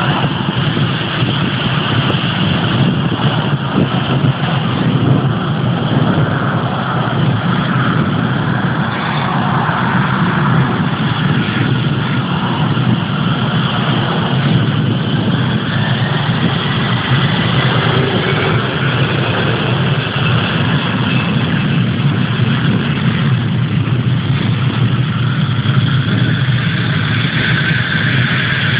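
Jet airliner's engines running with a steady loud noise, a faint whine slowly rising in pitch in the second half.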